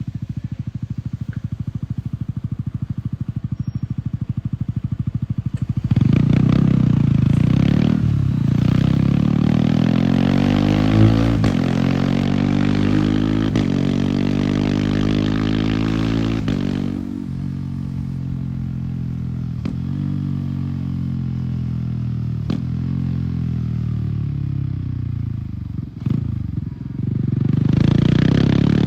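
Yamaha R15's single-cylinder engine through an MTG exhaust, running steadily at low revs, then accelerating hard through the gears: the pitch climbs and drops sharply several times as the quickshifter cuts in for each upshift. After that the revs fall away as it slows, and near the end it accelerates again.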